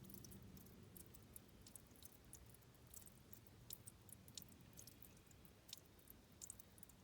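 Very faint trickle and drip of water at a stream's headwater: scattered small irregular clicks and plinks, several a second, over a low steady rumble.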